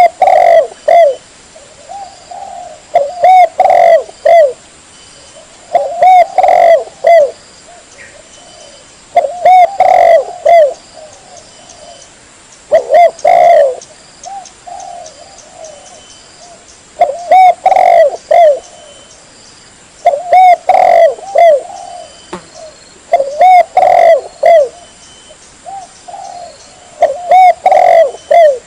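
Spotted dove (tekukur) cooing loudly: a short phrase of several coos, repeated about every three seconds.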